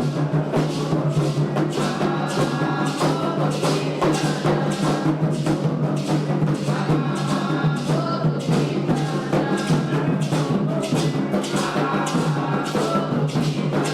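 Candomblé ritual music: atabaque hand drums playing a fast, steady rhythm, with voices singing a chant in phrases over the drumming.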